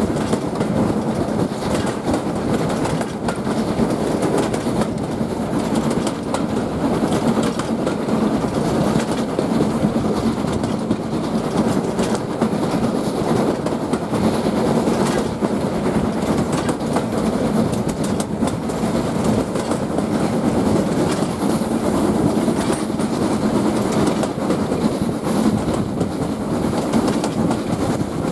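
Steam-hauled passenger train running steadily along the line, a dense rumble of the coaches with the click of wheels over rail joints, heard from an open carriage window.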